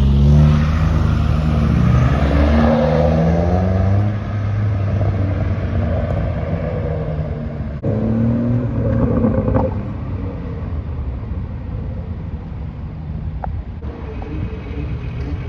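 Modified car's engine and exhaust running loud close by, then fading as it moves off, with a short rev about nine seconds in.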